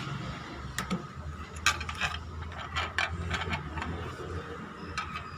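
A series of sharp plastic clicks and rattles, spread over several seconds, as the drain-pump filter cap and service cover at the bottom of a Bosch Series 4 front-loading washing machine are pressed, tightened and locked shut. A low hum runs underneath.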